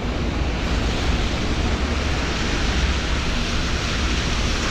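Steady hiss of rain falling on a wet street, mixed with the wash of traffic.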